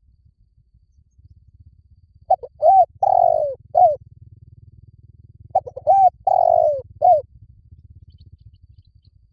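Spotted dove cooing: two phrases about three seconds apart. Each phrase is a few quick short coos, then a longer falling coo and a short closing note.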